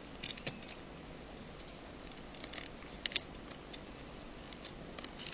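Small, sharp clicks and taps of tools and small parts being handled during iPhone 5 repair work. They come in a few quick clusters: one right at the start, the loudest about three seconds in, and another near the end.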